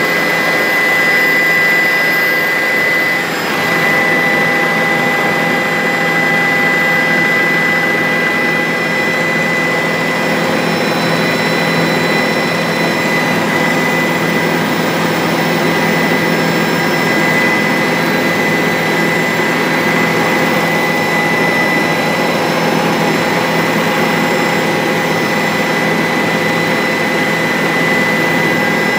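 Bell 407 helicopter's single turboshaft engine and rotor running steadily in flight: a constant turbine whine with several steady tones over a dense noise, dipping briefly about three seconds in.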